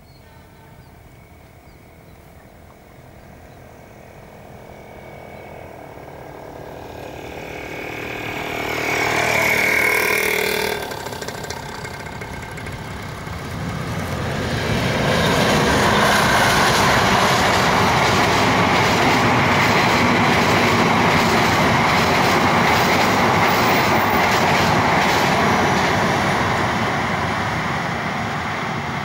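Diesel-electric locomotive hauling a passenger train draws near, growing louder, with a held horn-like tone that cuts off sharply about eleven seconds in. The coaches then pass close by with a loud, steady rush of wheels on rail and quick clicks over the rail joints, easing slightly near the end.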